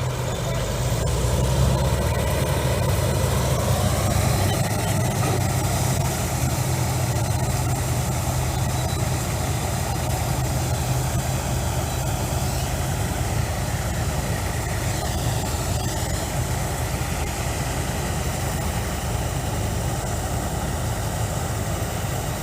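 Combine harvester's diesel engine running steadily under load, a loud, even machine drone whose pitch rises slightly and settles about four seconds in.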